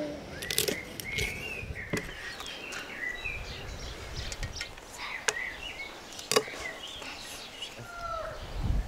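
Small birds chirping and calling in short, scattered phrases, with a few sharp clicks and knocks from the work at the table.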